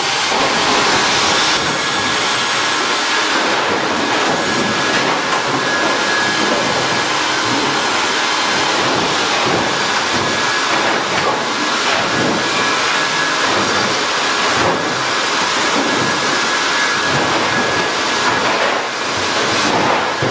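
Sawmill machinery running: a loud, steady roar of noise with a faint high whine held through it.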